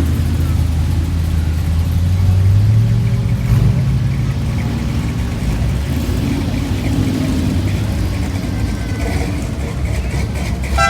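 Car engine running with a low, steady note; its pitch rises briefly about two to three seconds in, then settles back.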